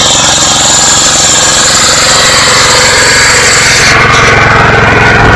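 Yanmar diesel engine running steadily on a converted MEP-016D 3 kW military generator set, a loud, fast, even diesel clatter. About four seconds in the sound turns deeper, with less hiss on top.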